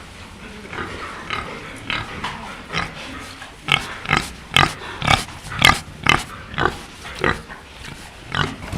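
Pig grunting in short repeated grunts, about two a second, louder from around the middle.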